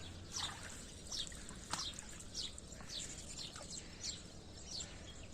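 A bird chirping over and over, short high notes that each slide downward, coming about every half second, over a faint low hum.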